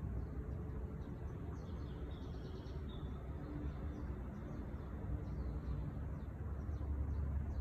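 Faint, high songbird chirps: a quick run of notes between about one and a half and three seconds in, then scattered single chirps. They sit over a steady low rumble.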